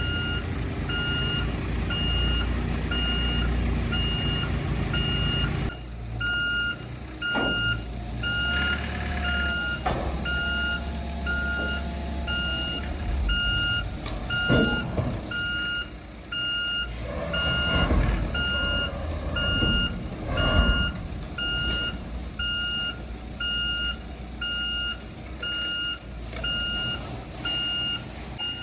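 A heavy vehicle's reversing alarm beeps at an even pace throughout, over a diesel engine running. Several sharp metallic knocks come in the middle stretch.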